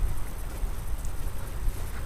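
Wind rumbling and buffeting on the microphone outdoors, uneven in level.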